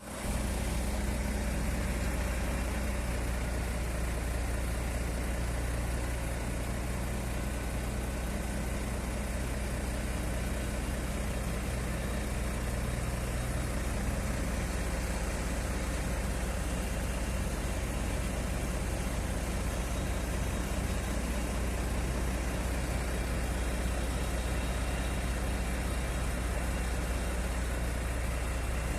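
Heavy engine running steadily at a constant idle-like speed, with a strong low hum.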